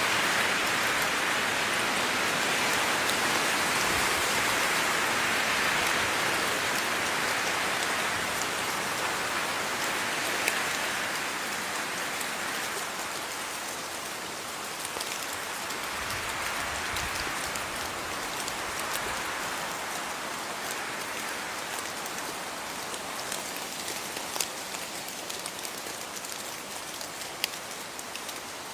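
Steady rain falling on a surface, a dense hiss with scattered individual drop ticks, heavier in the first dozen seconds and then easing a little.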